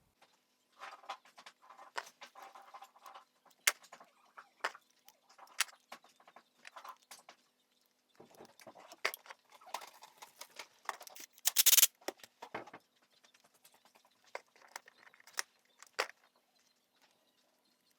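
Metal tools and brake parts being handled: irregular clicks, clinks and short scrapes, with one louder clank about twelve seconds in.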